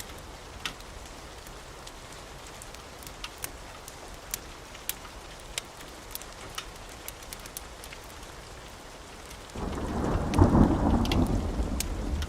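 Steady rain with scattered sharp clicks. About two thirds of the way in, a sudden loud rumble of thunder breaks in and keeps rolling to the end.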